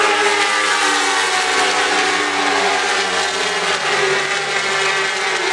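Several 1000cc superbike race engines running hard together, their pitches overlapping and sliding as the riders shift and brake, with a drop in pitch about four seconds in.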